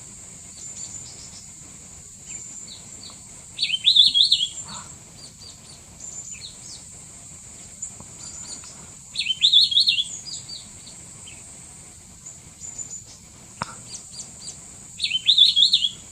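Mishmi wren-babbler singing: three loud, rapid, warbled phrases about a second long, spaced five to six seconds apart. Fainter high chirps from other birds fill the gaps, over a steady high-pitched background tone.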